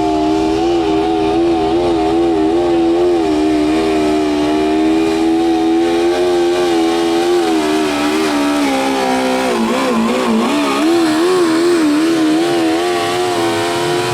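Modified pulling lawn tractor's engine held at high revs under load while dragging the weight sled, its pitch wavering steadily. About two-thirds of the way through it bogs down briefly, then picks back up.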